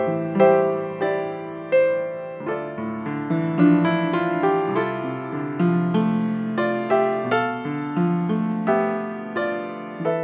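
Piano playing a slow, gentle piece, notes struck one after another and left to fade over held chords.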